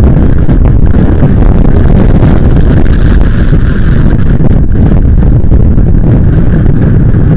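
Heavy wind buffeting on the microphone of a moving motorcycle: a loud, steady rumble.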